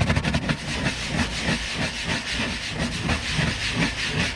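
Stiff brush scrubbing a boat fuel tank wet with Zep cleaner: rapid back-and-forth strokes, about three a second, with a harsh scratchy hiss.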